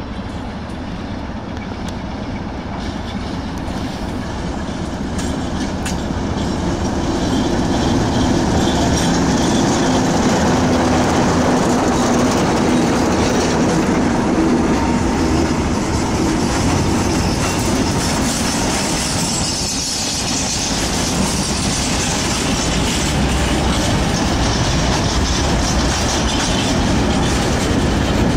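A freight train hauled by diesel locomotives, led by a Romanian 060-DA diesel-electric with a Sulzer V12, approaches at low speed with its engine drone growing louder. The wagons then roll past with clattering wheels and a high-pitched wheel squeal.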